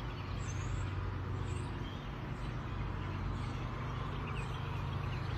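Steady low mechanical hum under faint background noise.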